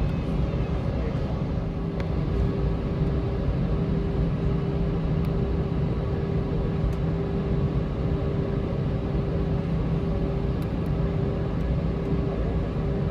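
Airbus A321 cabin noise heard from a seat inside the cabin: a steady low rumble with a constant hum, even and unchanging.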